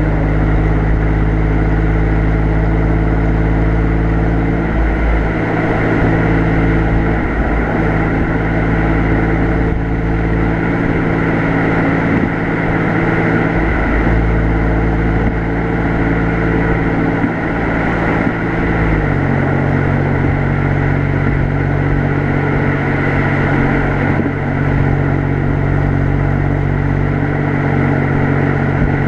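Exhaust note of an Alfa Romeo Giulia Quadrifoglio's 2.9-litre twin-turbo V6, heard from the rear bumper while the car is driven gently, over a steady rush of road noise. About two-thirds of the way through, the engine note steps down to a lower pitch and holds there.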